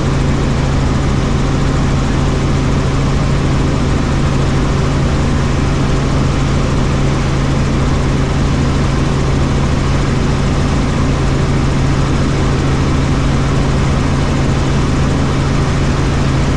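Helicopter in flight: a steady, loud drone of turbine and rotor with a strong low hum that does not change.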